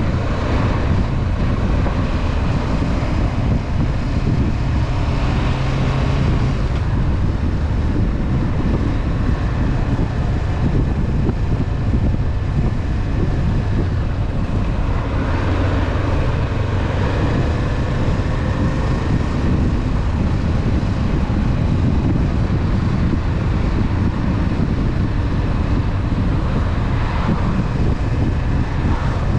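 Honda CB500F parallel-twin engine running at a steady cruise, with wind rushing over the microphone. The engine's pitch drifts slowly up and down a little.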